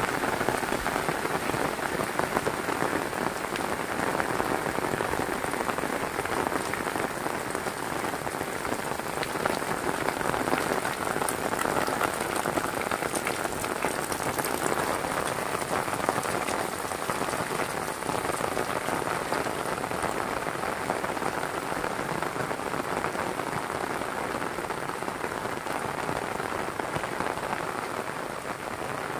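Heavy rain falling in a steady, dense patter.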